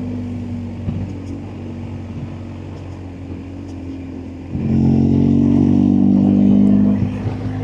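BMW R1250GSA's boxer-twin engine running on the road. About four and a half seconds in the throttle opens and the engine note gets suddenly louder and stronger, then eases back near the end.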